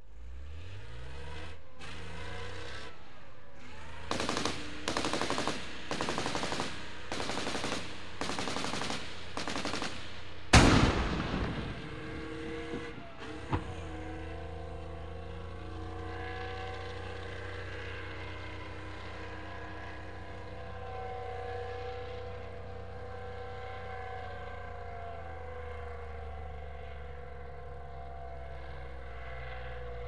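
Chieftain tank's engine starting up and running, with about eight short bursts of machine-gun fire in the first ten seconds. A single loud cannon shot comes about ten seconds in, followed by a smaller bang. The engine then runs steadily with a constant whine.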